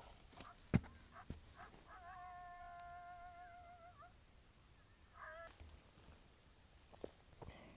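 Predator call sounding a long, drawn-out, meow-like distress cry that wavers at its end, then a short falling cry, to lure coyotes in. A sharp click comes just before, under a second in.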